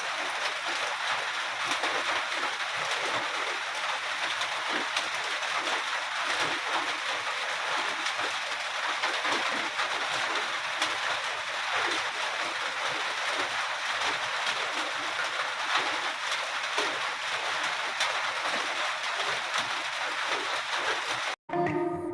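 Steady rainfall: a dense, even hiss with fine patter of drops. It cuts off suddenly near the end and plucked guitar music begins.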